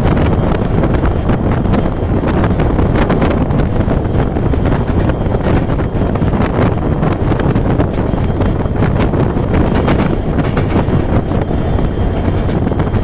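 Meter-gauge passenger train passing at speed: a steady rumble of wheels on the rails, with scattered sharp clicks. Wind buffets the microphone throughout.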